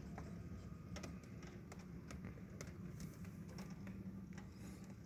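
Raindrops striking a hard surface, heard as irregular faint ticks a few times a second over a steady low hum.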